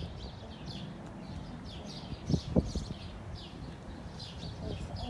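A small bird chirping over and over, short high chirps about two to three a second, over a low steady rumble. Two soft thumps about two and a half seconds in.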